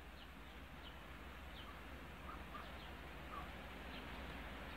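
A small bird chirping repeatedly, short high calls that each drop in pitch, heard faintly over a steady low rumble.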